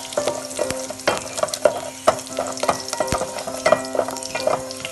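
Mustard seeds and dried red chillies spluttering in hot oil in a pan, irregular sharp pops over a steady sizzle, with curry leaves going in and being stirred.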